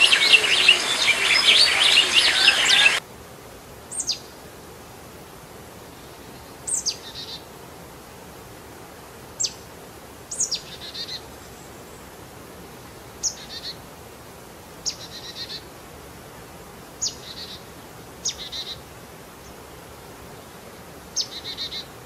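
A dense chorus of many birds chirping cuts off abruptly about three seconds in. After that, a single bird repeats a short call every one to three seconds, a quick high whistle sweeping downward and often followed by a brief buzzy rattle, over a faint steady hiss.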